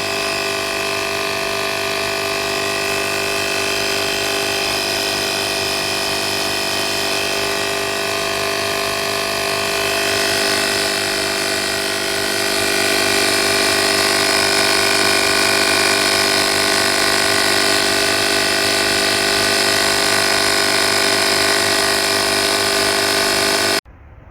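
Oasser portable 12V air compressor running with a steady motor-and-pump hum, getting a little louder about halfway through, then cutting off abruptly near the end.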